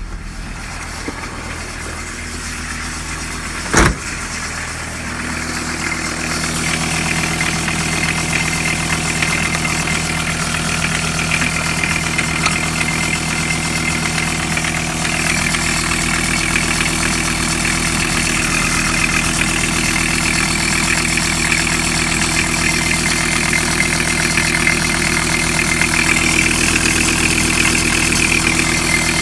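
Volkswagen T4's 2.4-litre AAB five-cylinder diesel engine running at a steady idle, with one sharp knock about four seconds in, after which the engine sound grows louder and settles.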